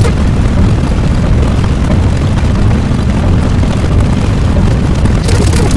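Loud, steady rumbling sound effect, strongest in the low end and without any clear pitch, with a burst of hiss coming in near the end.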